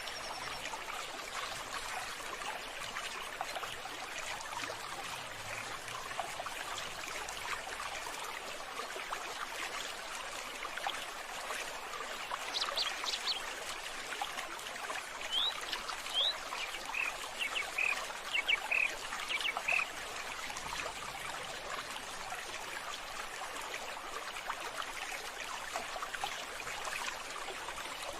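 Running water trickling steadily, with a series of short, high bird calls about halfway through.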